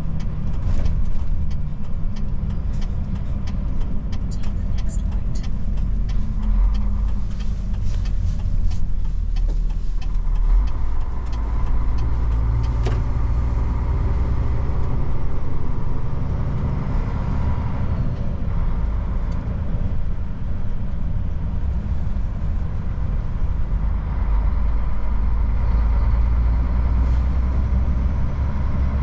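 Old Mercedes truck's diesel engine running while driving, a steady low rumble whose note steps up about six and again about ten seconds in, with scattered clicks and rattles.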